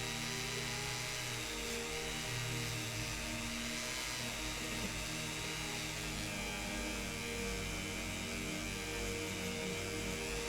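Rotary wire brush running steadily against a die-cast model car body, wire-brushing the metal casting, over background music.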